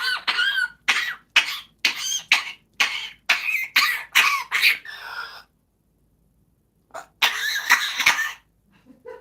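A parrot mimicking a coughing, choking fit: a rapid run of about a dozen short coughs, a pause, then another burst of coughing near the end.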